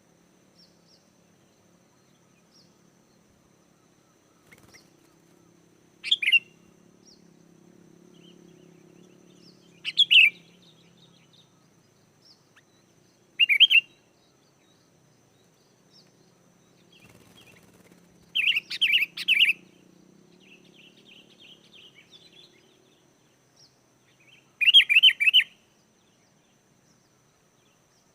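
Sooty-headed bulbul (kutilang) singing: short loud phrases of a few quick notes, in about five bursts a few seconds apart.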